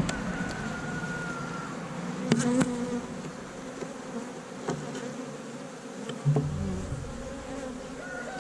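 Honey bees buzzing steadily around an opened Langstroth hive during a frame inspection. A few sharp knocks break in, the last with a duller thump about six seconds in.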